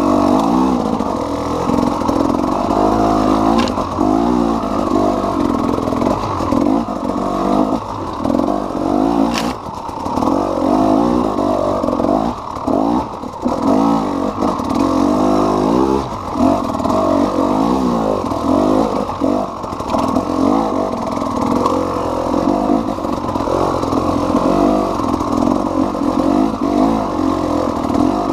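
KTM EXC 300 two-stroke single-cylinder enduro engine being ridden hard, its revs rising and falling constantly through throttle blips and gear changes. Two sharp knocks cut through, about four and nine seconds in.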